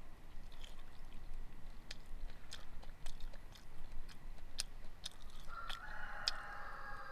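Close chewing and eating sounds as a run of short, crisp clicks. Near the end a rooster crows once, a long call of about two seconds.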